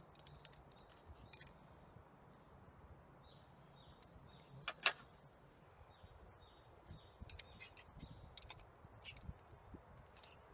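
Faint songbird song: phrases of quick, repeated high descending notes over a steady outdoor hiss. A few light clicks, the sharpest about five seconds in.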